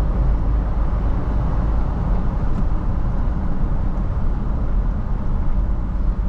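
Steady rumble of a car being driven, engine and road noise heard from inside the vehicle.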